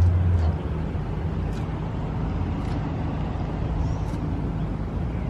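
Car engine running with a steady low rumble; a louder low drone drops away about half a second in.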